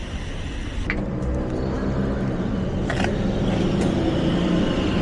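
2025 Triumph T120's 1200 cc parallel-twin engine running as the bike rides, its engine note coming in about a second in and growing steadily louder, over a low rumble, with two brief clicks.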